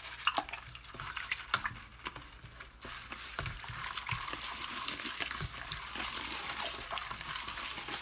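Soaked wild bird seed being shaken in a sieve: water trickles and drips through with many small ticks of seed, and the hiss grows steadier about halfway through.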